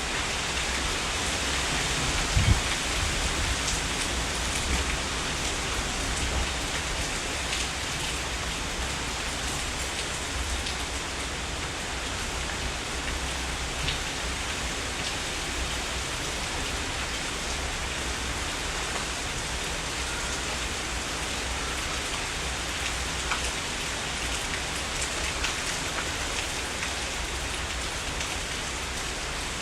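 Heavy rain falling steadily, with individual drops ticking close by. A brief low thump about two and a half seconds in.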